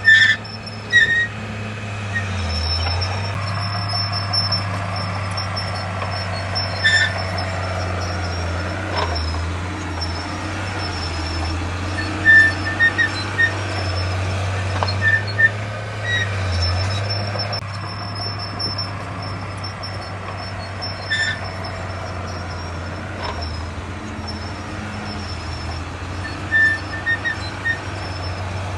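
Heavy diesel earthmoving machinery running steadily with a low drone, with short high-pitched squeaks and metallic clinks now and then.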